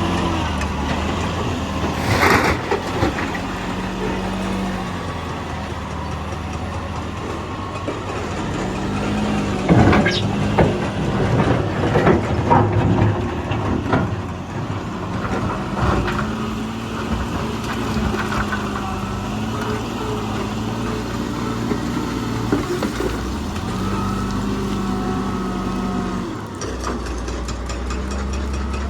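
Heavy diesel earthmoving machinery engine running, revving up several times, with loud knocks and crashes about two seconds in and again between about ten and fourteen seconds.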